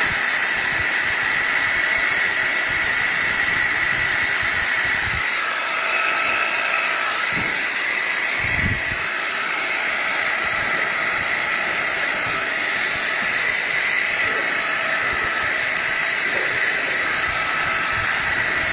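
Milling machine running steadily: a hiss with a high whine, fainter tones coming and going, and a couple of soft low thumps around the middle.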